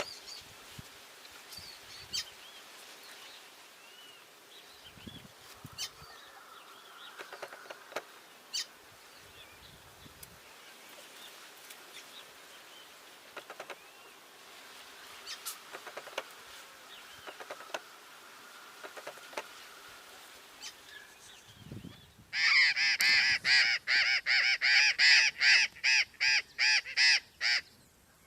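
A Steller's jay gives a loud, harsh series of calls, about three a second, for some five seconds near the end. Before that there is faint chirping of birds and scattered clicks.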